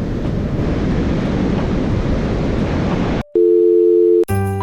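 Strong sea wind buffeting the microphone over the surf for about three seconds, cut off abruptly. Then a loud steady electronic tone for about a second, like a dial tone, with music starting just at the end.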